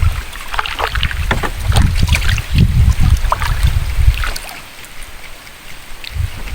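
Water splashing and sloshing around a small boat, with wind buffeting the microphone as a low rumble; it quietens about four seconds in.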